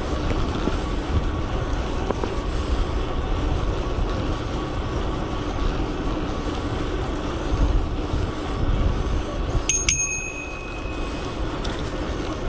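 Steady riding noise from an electric bike underway, with wind rumble on the microphone. Near the end a bicycle bell is struck twice in quick succession, its ring fading away over about a second.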